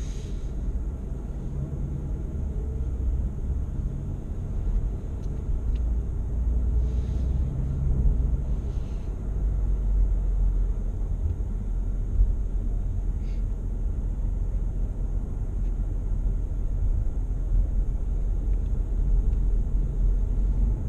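Motorcycle engine running at low speed with a steady low rumble, as the bike is ridden slowly around a parking lot.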